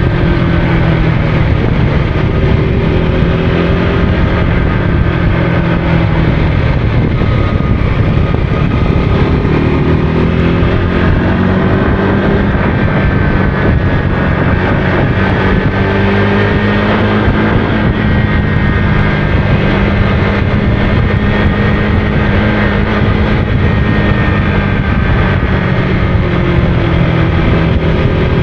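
Motorcycle engine running under way, its pitch shifting up and down with the throttle, over steady wind rush on the microphone.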